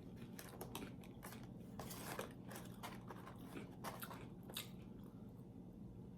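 A person chewing food with many small, irregular crisp crunches. The crunches are a little louder about two seconds in and again past the middle.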